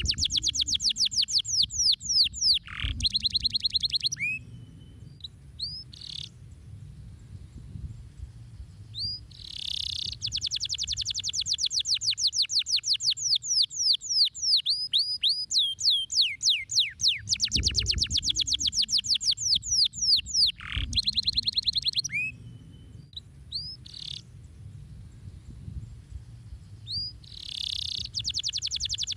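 Domestic canary singing: long, rapid trills of repeated downward-sweeping notes, broken twice by pauses with only a few scattered chirps.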